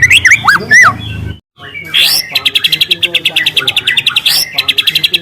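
Juvenile white-rumped shama (murai batu) singing. Whistled notes slide up and down at first, then after a brief silent break comes a long, fast canary-like trill of high notes, about twenty a second, which pauses once for a moment and starts again.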